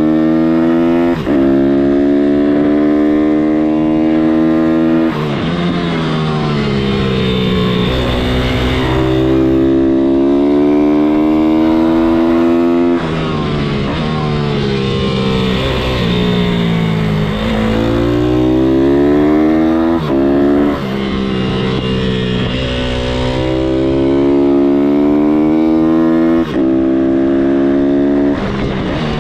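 MRF 160-R SM pit bike's single-cylinder four-stroke engine revving up through the gears, with brief dips at each shift. It drops in pitch as the bike slows, then climbs again, several times over.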